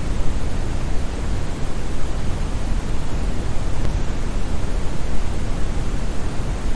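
Steady synthetic brown noise: a deep, even rushing hiss with most of its energy in the bass and little in the highs, like a distant waterfall.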